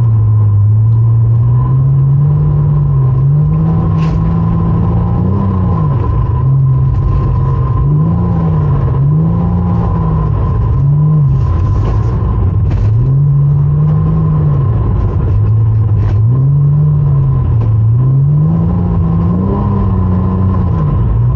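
Porsche Cayman engine revving up and down over and over as the car is held in a drift, its pitch rising and falling every second or two. A steady high tone runs alongside the engine.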